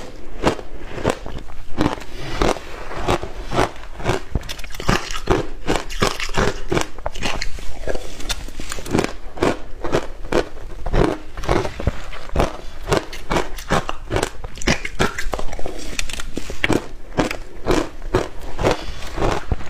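Crushed ice with passion fruit being bitten and chewed close to the microphone: loud, sharp crunches come a few a second without a break.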